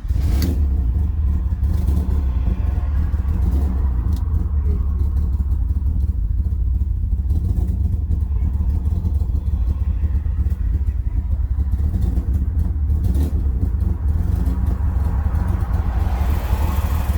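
BMW E36 with a swapped turbocharged M50B25 inline-six and a full exhaust system, running at a steady idle with a strong low drone that comes in abruptly at the start. A hiss builds in near the end.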